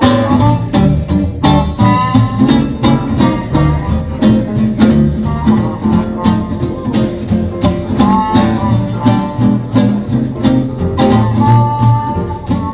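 Live swing band playing an instrumental introduction: a rhythm guitar and string bass keep a steady beat under melody lines from the horns or piano.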